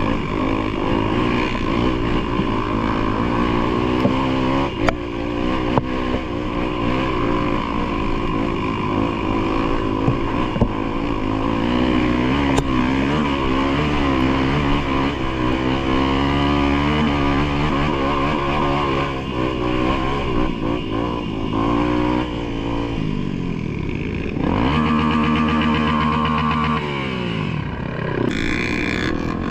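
Off-road vehicle engine running under changing load, its revs wavering up and down throughout. Near the end the revs drop sharply and then climb back up.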